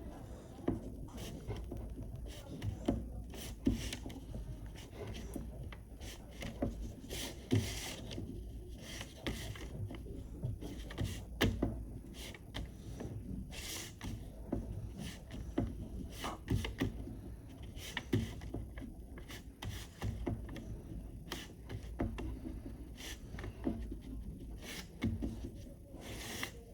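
Oil pastel rubbing and scraping across paper in short, irregular strokes, with small taps among them.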